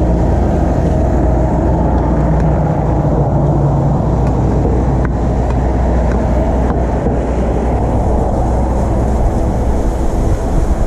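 Motor vehicle engines running with a steady low rumble, as in street traffic.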